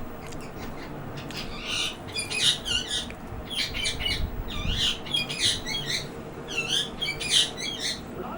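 A parrot squawking in a rapid series of short, harsh, high calls, starting about a second in and stopping shortly before the end.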